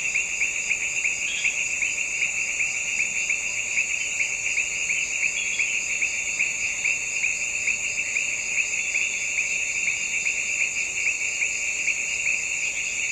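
A dense, steady chorus of insects: a rapid, even pulsing trill with a second, higher buzz above it, running on without a break.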